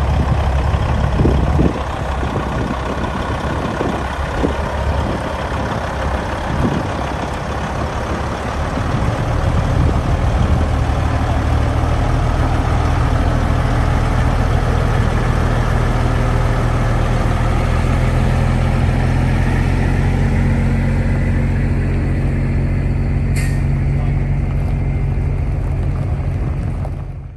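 Semi truck's Cat C15 diesel engine running, uneven for the first few seconds and then settling into a steady drone. Near the end comes one short hiss of air, like an air brake.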